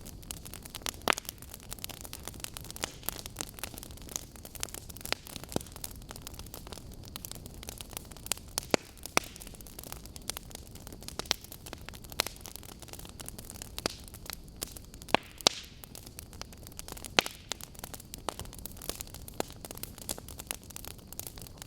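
Burning wood logs crackling: a steady low hiss of the fire with frequent sharp pops and snaps, a few much louder than the rest.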